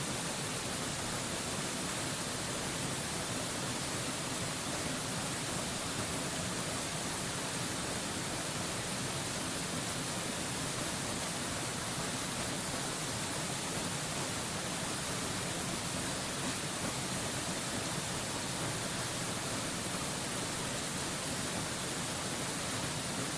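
Steady rushing of a waterfall: an even, unchanging hiss that fills all pitches, strongest in the upper range.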